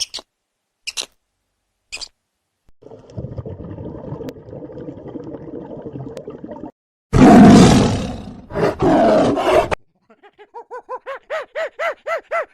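A large animal, likely a big cat, growls for a few seconds and then gives one loud roar. After the roar a different animal starts a fast run of short pitched calls that grow louder.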